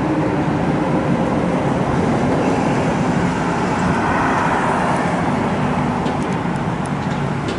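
Steady road traffic noise, vehicles passing by.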